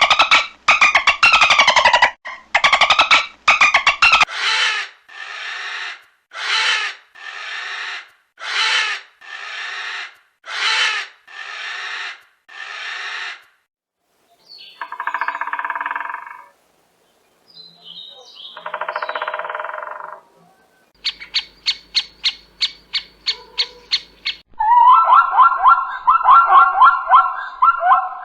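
A run of different animal calls played one after another, each a few seconds long: a series of evenly spaced calls about one a second, two separate drawn-out calls, a quick rattle of clicks, then rapid chattering.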